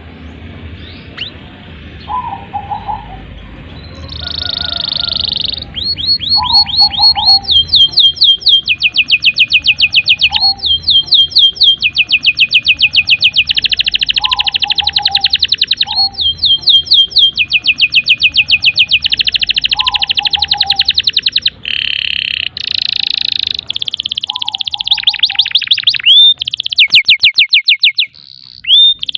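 Domestic canary singing a long, continuous song of very rapid trills and rolls, the phrases running almost without a break. A shorter, lower call repeats every few seconds beneath it.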